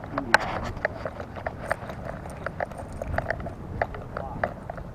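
A dog's claws clicking in a quick, uneven patter on a hard floor as it walks, picked up close by a camera strapped to the dog.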